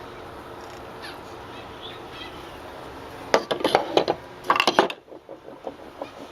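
Carved wooden bowl pieces clacking and knocking against each other as they are handled, in two quick clusters of knocks a little past halfway.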